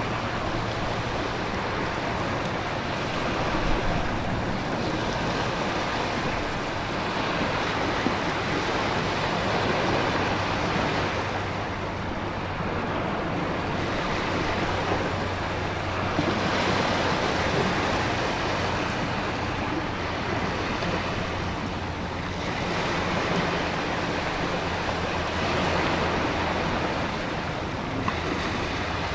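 Storm ambience: dense, steady rain-and-wind noise with ocean surf surging in swells every few seconds, over a low steady hum.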